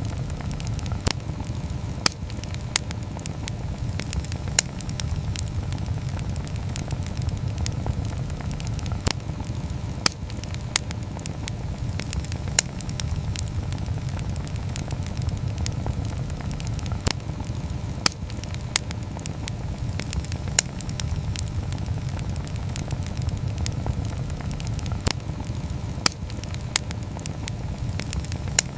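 Wood campfire burning, with irregular sharp crackles and pops, several every few seconds, over a steady low rumble.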